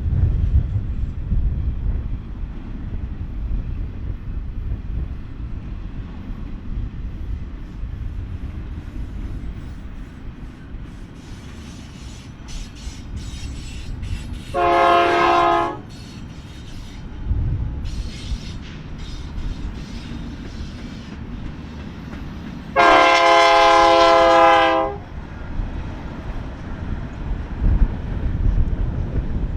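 BNSF freight train rolling by with a steady low rumble and clacking wheels. A diesel locomotive's air horn sounds a short blast about halfway through, then a longer blast of about two seconds a few seconds later, and starts again at the very end.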